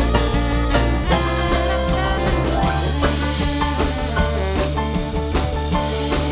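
Live band playing an up-tempo instrumental solo break: drum kit and bass keeping a steady groove under a keyboard lead, with no singing.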